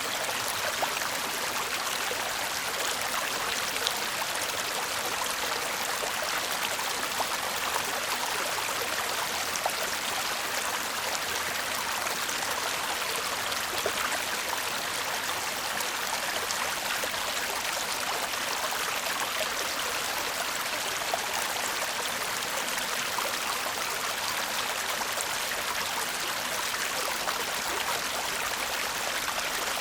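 A shallow stream babbling steadily over stones, an even rush of water with many small splashes and trickles.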